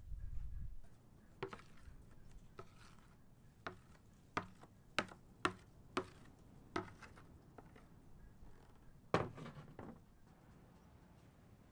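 Knife chopping on a wooden cutting board: about nine sharp, irregularly spaced knocks, the loudest near the end, after a low rumble in the first second.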